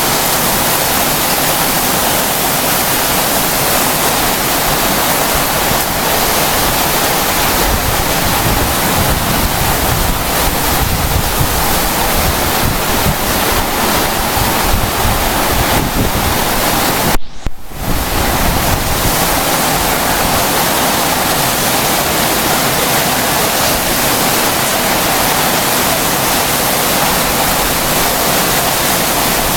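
Heavy rain mixed with hail pelting down in a storm: a loud, steady wash of countless impacts with wind. It drops out suddenly for about half a second a little past halfway, then resumes.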